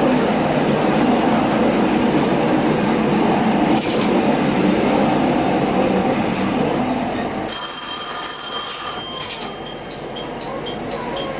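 Running noise inside a diesel railcar, heavy and steady, for about seven seconds. The low rumble then drops away and a high, steady wheel squeal holds for about a second and a half. After it comes a quick run of clicks from the wheels over the track.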